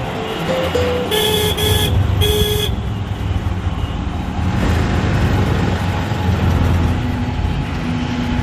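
Road traffic with a steady low rumble; about a second in, a vehicle horn honks three times in quick succession.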